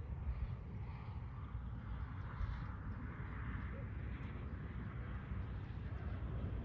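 Outdoor ambience with wind buffeting the microphone as an uneven low rumble, under a steady soft hiss.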